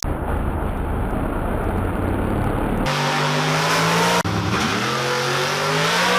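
LS V8 car engines in three quick cuts. First comes a loud, deep rumble for about three seconds, then an engine holds a steady note. From about four seconds in, an engine revs up with its pitch rising steadily.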